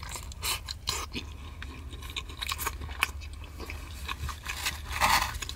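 A person chewing food, with short irregular mouth clicks. A short breathy noise comes near the end.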